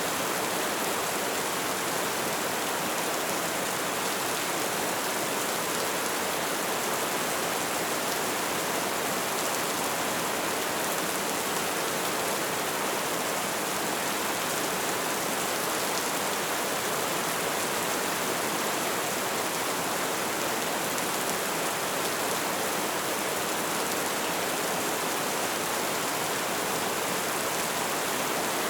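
Light rain falling steadily, an even hiss of drops with no distinct individual strikes.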